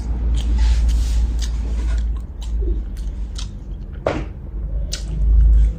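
A person chewing and biting food, with short sharp clicks scattered through it, over a steady low rumble.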